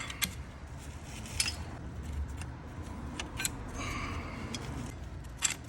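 Metal clutch plates and friction plates of a Yamaha XSR900 clutch clinking as they are handled and slid onto the clutch basket, with a few sharp metallic clicks and a brief ring about four seconds in.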